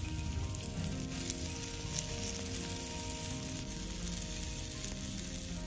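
Marinated chicken pieces sizzling steadily as they fry in oil in a miniature pan.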